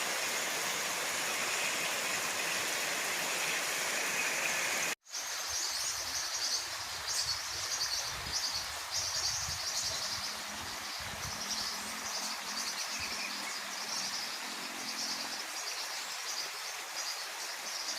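Heavy rain hissing steadily. After an abrupt cut about five seconds in, insects chirp in high, repeated pulses over a softer background hiss, with a few scattered low knocks.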